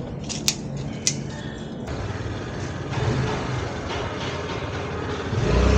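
A motor vehicle engine running steadily amid road traffic, with two sharp clicks early on. The sound grows louder about halfway through, and a heavier low rumble comes in near the end.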